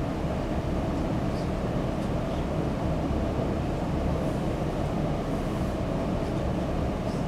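Steady low room noise, like a ventilation system running, with a few faint ticks.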